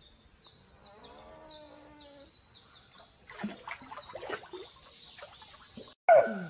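Beavers in water: a run of high, squeaky chirps and a short whining call in the first two seconds, then splashing. Near the end, a brief loud sound drops sharply in pitch.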